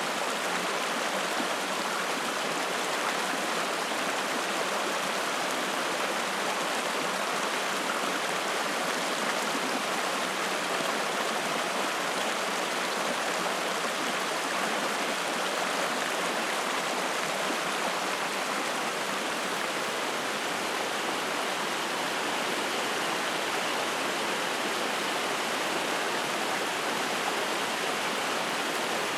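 Spring-fed mountain stream flowing: a steady, even rush of water.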